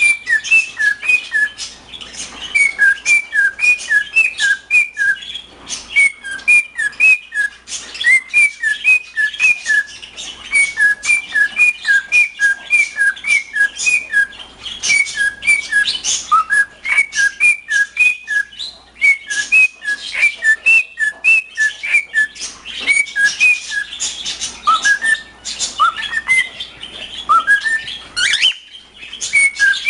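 Male cockatiel singing: a long run of short whistled notes, several a second, with a few rising whistles in the second half. Sharp clicks and taps are heard throughout.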